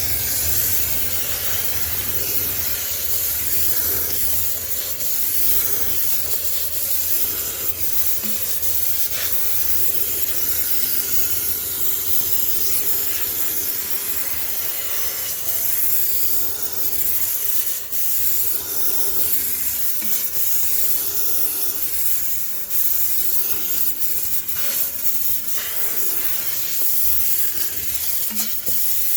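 High-pressure steam cleaner spraying a steady hissing jet into a sneaker washing machine to sterilize it.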